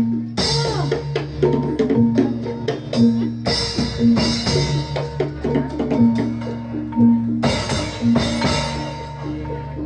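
Live Javanese jathilan music: drums and tuned percussion keep a steady repeating beat, with a bright crash about every four seconds.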